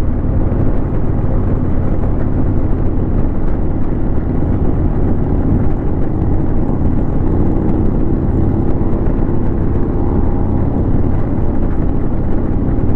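Harley-Davidson Road King's V-twin engine running steadily while riding, mixed with wind and road noise.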